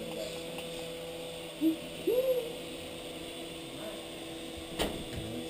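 Steady hum of a small toy RC helicopter's electric motors and rotors in flight. Two short hoot-like voice sounds come about one and a half and two seconds in, and a sharp click comes near the end.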